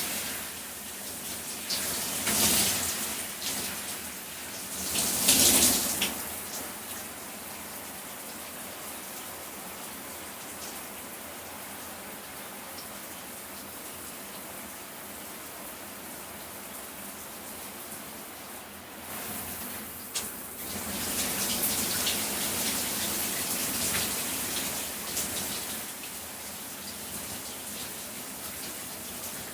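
Shower running with a person under the spray: a steady hiss of falling water. It swells louder briefly about two and five seconds in, and again for several seconds from about twenty seconds in.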